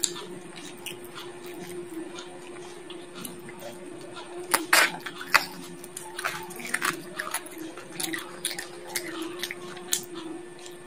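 Close-up biting and chewing of a fried chicken bone: a run of sharp crunches and cracks as teeth crush the bone, the two loudest about halfway through, over a steady low hum.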